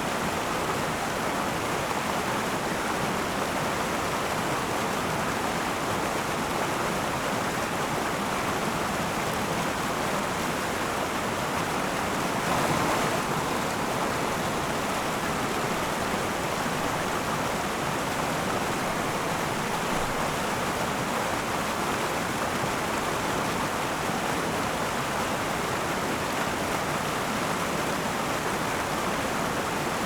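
A river flowing over stones, a steady rushing of water with a slight swell about twelve seconds in.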